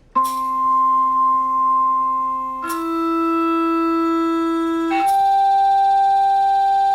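Electronic piano tones driving a sand-covered metal plate: three long, steady held notes, each higher than the last, the pitch changing about two and a half seconds in and again about five seconds in.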